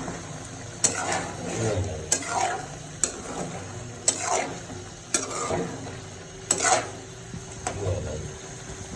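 A spoon stirring and breaking up soft boiled turnips in a pot of frying masala, with a light sizzle and sharp knocks of the spoon against the pot roughly once a second.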